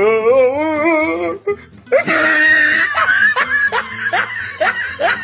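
A voice holds a warbling note with a fast wobble in pitch for about a second. About two seconds in, loud laughter breaks out, in short rising bursts.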